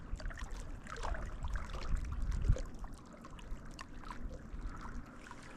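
Water lapping against a small boat, with scattered light ticks and knocks and a low rumble that is strongest in the middle.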